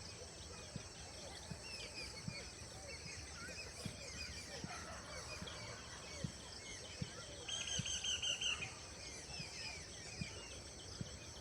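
A chorus of small birds chirping and calling, with a louder rapid trill lasting about a second near the middle.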